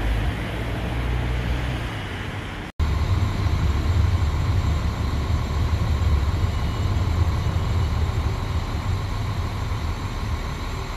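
Railway station ambience: a steady low rumble of trains and nearby traffic. The sound drops out for an instant about three seconds in and comes back louder, with a faint steady high tone above the rumble.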